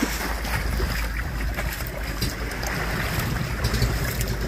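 Wind buffeting the microphone over the steady wash of shallow sea water and small waves.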